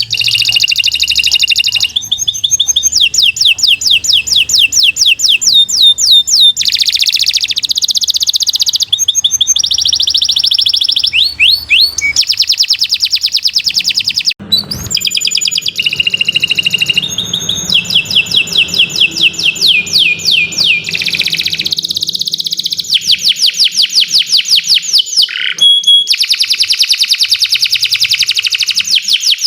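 Domestic canary singing a long, unbroken song of high, fast rolling trills. Each phrase is a rapid run of repeated notes that switches to a new phrase every second or few.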